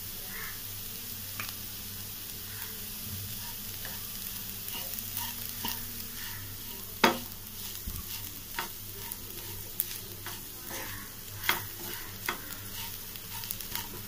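Bitter gourd and onion fry sizzling in a frying pan while a spatula stirs in freshly added salt and spice powder. A steady sizzle runs throughout, broken by scattered scrapes and taps of the spatula on the pan, the loudest about halfway through.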